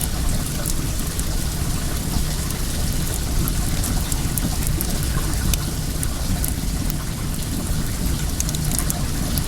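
Wood fire crackling, with scattered short sharp pops and snaps, over the steady rush of flowing well water.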